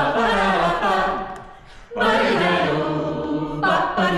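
A cappella vocal group singing in close harmony with no instruments. One phrase fades out about a second and a half in, and a new phrase begins about two seconds in.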